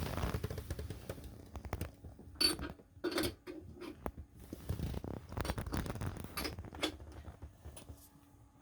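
Irregular clicks, knocks and scraping, like hard objects being handled, with a couple of louder knocks a few seconds in.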